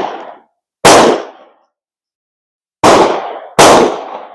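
Gunshots on a shooting range: three sharp reports, about a second in, near three seconds and again less than a second later, each dying away in a short echo, with the tail of another shot fading at the start.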